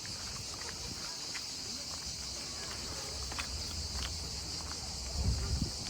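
Steady high-pitched insect chorus running without a break, with a few light footstep clicks. A low rumble swells near the end.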